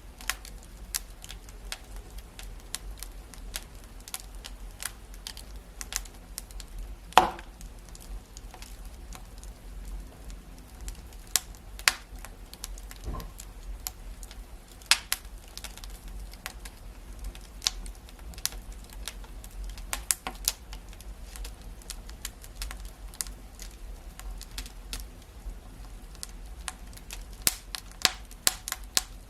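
Wood fire in a fireplace crackling, with irregular sharp pops and snaps over a low steady rumble of burning; one louder pop about seven seconds in.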